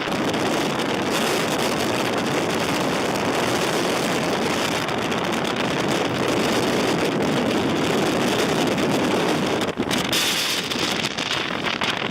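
Blizzard wind blowing hard across the microphone, a steady rushing noise that dips briefly near the end.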